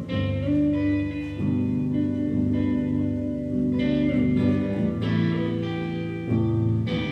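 Amplified guitars playing sustained chords in a live band performance, the chords changing about every second.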